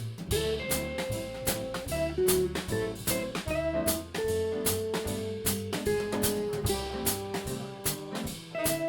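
A live band playing a jazz tune: a drum kit keeps time with regular cymbal and drum hits under a bass line and a melody of held notes.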